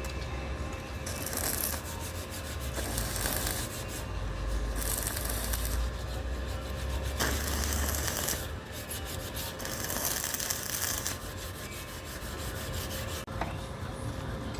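Harsh, rasping metalworking noise from the gate repair, swelling and easing in uneven stretches, with a deep rumble for roughly the first eight seconds and a faint steady tone underneath.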